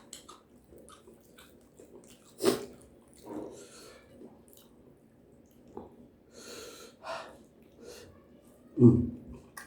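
Close-miked eating sounds: chewing with small wet mouth clicks and hissing breaths, broken by two louder short breathy bursts, one about two and a half seconds in and one near the end.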